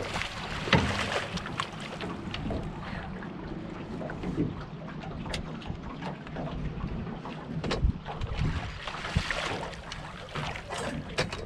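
Strong wind buffeting the microphone in gusts, with scattered knocks and clicks from the boat.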